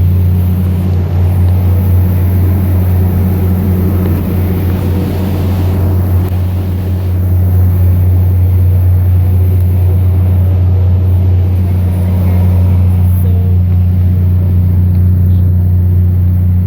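Cruise boat's engines running with a steady, loud low drone, and a rough wash of wind and water noise over it.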